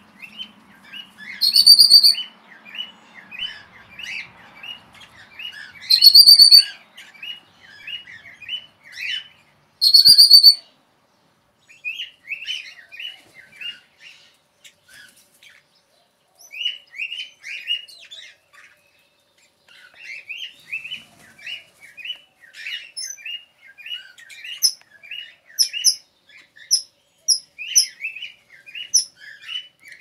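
Aviary birds chirping: a fast, almost unbroken run of short chirps, with three loud, shrill calls under a second long, about four seconds apart, in the first ten seconds. Thinner, higher chirps join in from a little past the middle.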